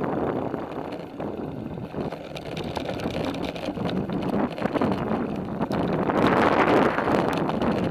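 Wind rushing over the microphone while riding a bicycle, gusting and growing louder about six seconds in.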